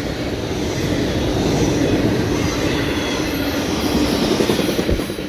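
CSX freight train rolling past, a steady rumble of wheels on rails with a faint held squeal, easing off near the end.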